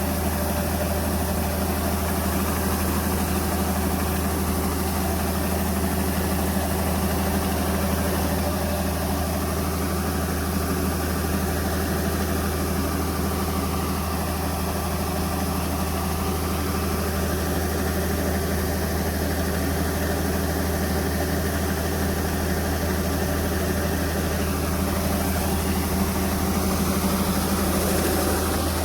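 Diesel engine of farm harvest machinery running steadily at a constant speed, a low, even engine hum with no change in pace.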